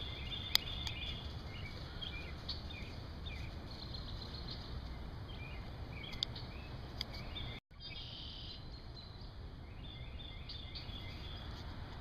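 Birds chirping in short, repeated calls over a steady low outdoor rumble. The sound cuts out completely for a moment a little past halfway.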